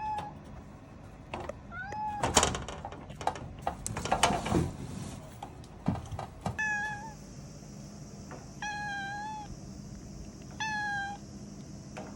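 Domestic cat meowing four times, the third call the longest, with a stretch of scratchy rustling and sharp clicks in between after the first meow.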